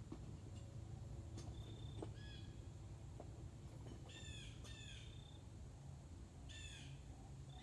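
Birds calling: a few short, sharply falling chirps, twice in quick succession about four seconds in and again near seven seconds, with a few brief high notes earlier, over a faint low background rumble.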